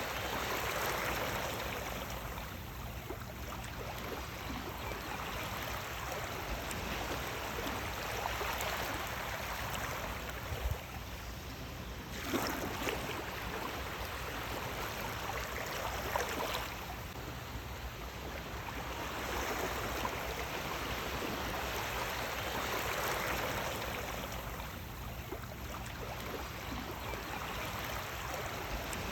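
Sea waves washing in: a steady rush of water that swells and eases every few seconds, with a couple of sharper splashes near the middle.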